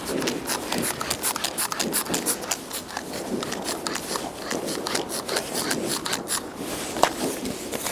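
Bonfire crackling and popping: a dense, irregular stream of sharp snaps, with one louder pop about seven seconds in.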